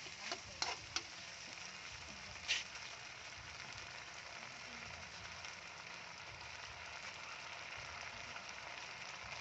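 Chicken wings frying in a thick sauce in a metal wok: a steady sizzle, with a few sharp clicks of a metal utensil against the pan in the first second and a louder scrape about two and a half seconds in.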